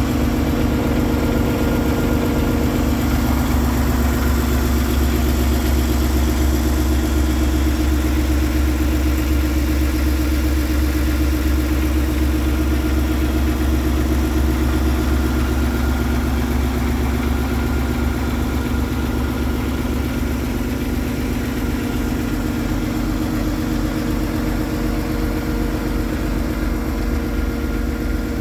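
Paccar 510 hp diesel engine of a Peterbilt 389 tractor idling steadily, a little quieter in the last third.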